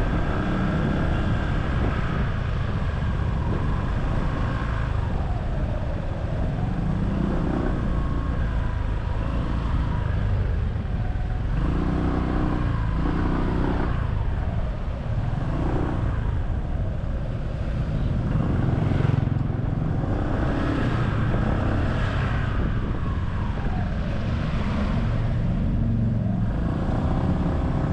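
Riding on a small motorcycle: its engine rises and falls in pitch as it speeds up and slows in traffic, over a steady rumble of wind and road noise.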